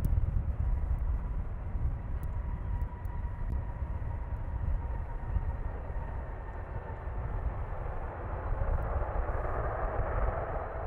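Jet airliner engine noise: a steady low rumble with a faint whine, and a rushing sound that swells near the end.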